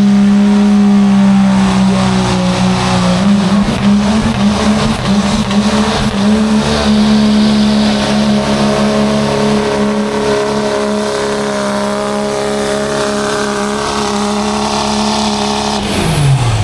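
Pulling truck's engine held at full throttle with a steady high drone while it drags the weighted sled down the track. Near the end the revs drop sharply as the throttle is let off at the end of the pull.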